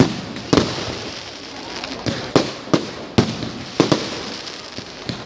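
Fireworks going off: a quick, irregular string of sharp bangs, roughly two a second, each echoing briefly, over a steady crackle.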